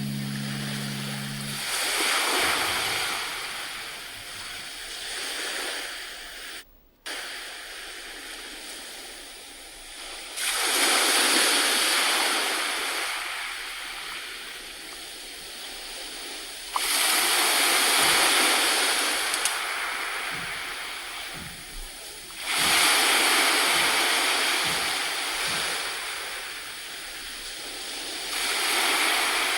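Sea surf: waves washing in and drawing back in slow, regular surges about every six seconds. A low steady hum stops in the first second or two, and the sound drops out briefly about seven seconds in.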